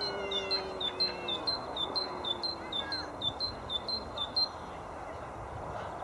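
A bird calling a rapid run of short, high-pitched notes, about four a second, that stops about three-quarters of the way through.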